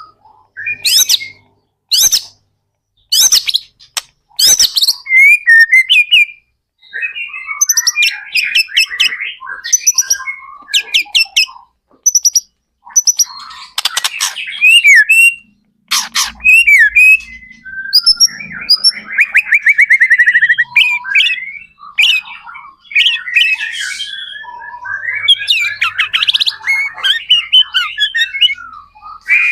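White-rumped shama (murai batu) in continuous full song: a fast, varied string of loud sharp notes, whistled slurs and rapid trills, with a buzzy trill about two-thirds of the way in.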